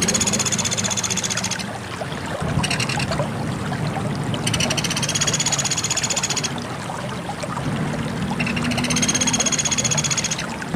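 Pelatuk beras, a small woodpecker kept as a songbird 'master', calling in fast high trills of rapidly repeated notes. There are three trills of about two seconds each, each rising slightly as it starts, with a brief shorter trill between the first two. Under them runs a steady low rushing background.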